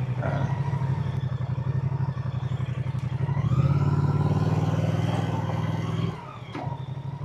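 Moto Guzzi motorcycle engine and exhaust running while riding, pulsing steadily; about three and a half seconds in the throttle opens and the engine gets louder and rises in pitch, then it drops off suddenly just after six seconds as the throttle is closed.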